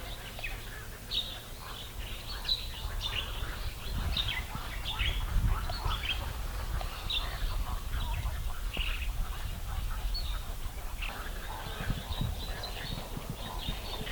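Wild birds chirping and calling, many short high notes scattered throughout, over a low rumble.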